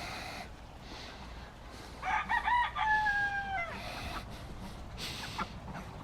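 Rooster crowing once, about two seconds in: a few short notes, then one long held note that drops off at the end.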